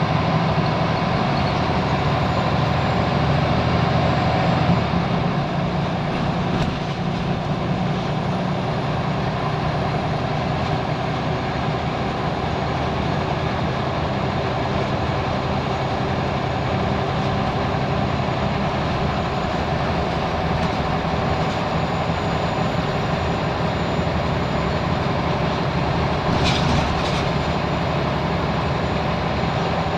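Scania L94UB Wright Solar bus heard from on board, its engine pulling hard for the first few seconds, then easing off about five seconds in and running on steadily with road and body noise. A brief sharp noise comes near the end.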